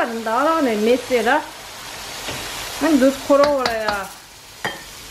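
Chicken curry sizzling in a wok while a slotted wooden spatula stirs it. A person's voice is heard twice over it, each time for about a second, and is the loudest sound.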